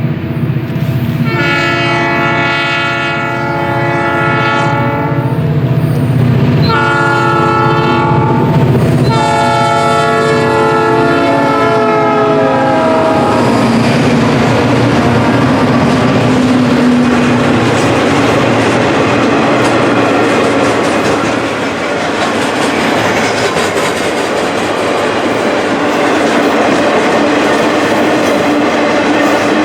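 CN locomotive horn sounding three blasts, a long one, a short one and a long one that drops in pitch, as the train passes; then the train rolling by with the clickety-clack of wheels over rail joints.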